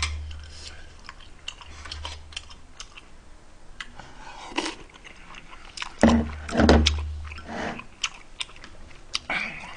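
Close-miked chewing of a mouthful of jjapaghetti noodles, ham and rice cake, with wet smacks and short clicks, heaviest about six seconds in.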